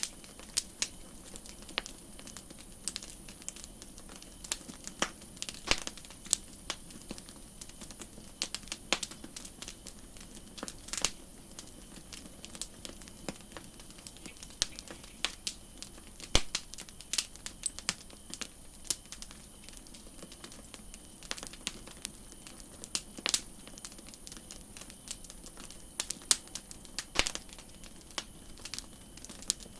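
Wood campfire crackling: irregular sharp pops and snaps of burning wood, some much louder than others, over a steady soft hiss.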